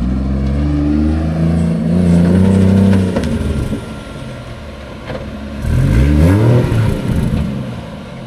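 Car engine revving twice: a rising rev held for about three seconds, then after a lower stretch a second, shorter rev that climbs and falls back about six seconds in.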